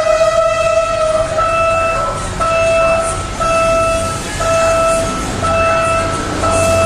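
Electronic railway warning alarm, most likely a level-crossing signal: a steady high tone that switches about a second in to a regular beep about once a second. Under it, the low rumble of an approaching train grows louder near the end.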